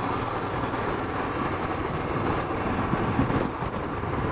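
Motorcycle engine running steadily on the move, mixed with road and wind noise.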